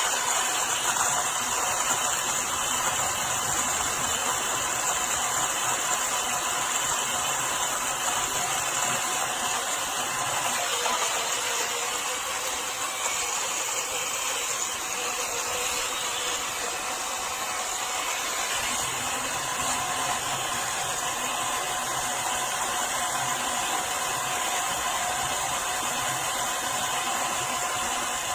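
COKUNST battery-powered portable mini blender running steadily: a high motor whine with a hiss of blade and contents.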